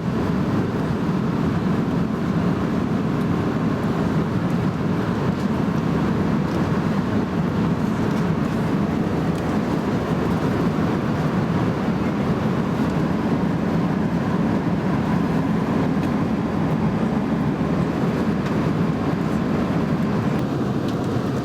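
Steady cabin noise inside an Airbus A320 in flight: an even, unbroken rushing drone of airflow and engines, heaviest in the low range.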